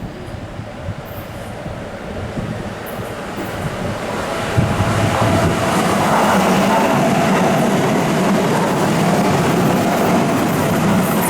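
Keihan electric train approaching on the rails, growing louder over the first five seconds or so and then running loud and steady, with a thin steady whine from about halfway in.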